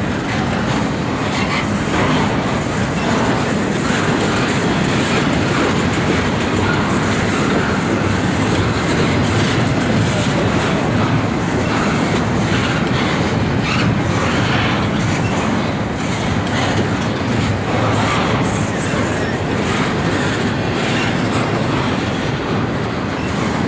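Intermodal freight train rolling past: a steady rumble of wheels on rail, with the clatter of cars passing over rail joints.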